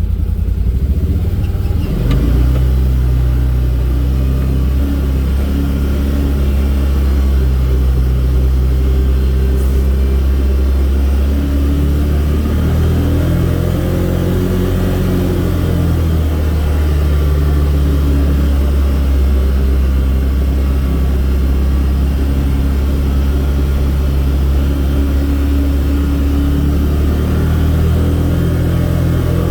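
Vehicle engine running at a steady low drone, its pitch rising and falling a few times as it speeds up and slows.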